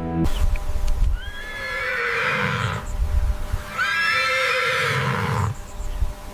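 Cape buffalo calf calling twice, two long high calls about a second apart, over a low rumble.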